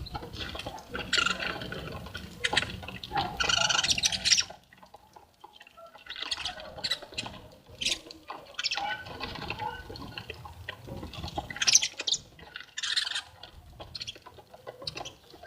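Small finches at a feeder chirping and twittering in repeated bursts, mixed with sharp clicks and taps. The calls break off briefly about a third of the way through, then start again.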